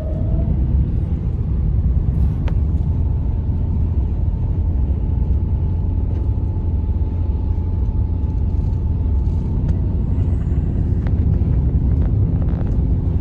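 Strong snowstorm wind buffeting the microphone: a steady low rumble, with a faint steady whine above it.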